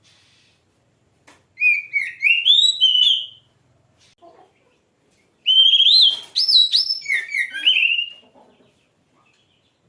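Oriental magpie-robin (kacer) singing two loud phrases of clear whistled notes that slur up and down, each about two seconds long, with a pause of about two seconds between them.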